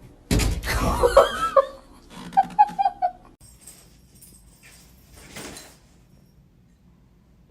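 A cat gives a loud, wavering call, then a quick run of short chirping notes, with a brief rustle a few seconds later.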